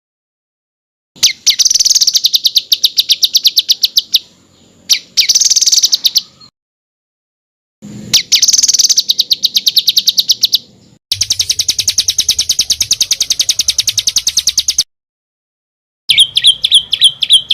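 Songbird tutor recording of rapid, harsh trills: sharp notes repeated about ten times a second in bursts of one to four seconds, with dead gaps between them. This is masteran song of tight rolls and rough 'shot' phrases, played to teach contest birds.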